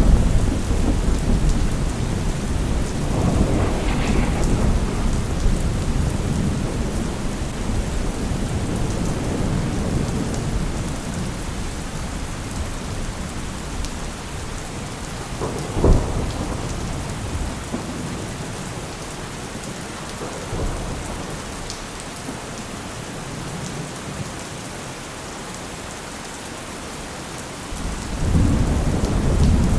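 Steady rain falling through a thunderstorm, with rolling thunder rumbles in the first few seconds, a sharp thunderclap about 16 seconds in, and another rumble building near the end.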